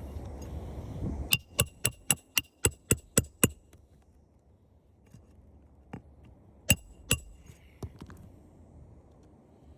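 Hammer driving roofing nails: a quick run of about nine ringing metal-on-metal strikes, then two more a few seconds later.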